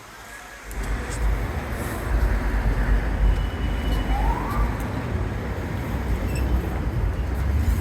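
City street traffic noise: a heavy low rumble comes up suddenly less than a second in and stays loud, with a brief rising whine near the middle.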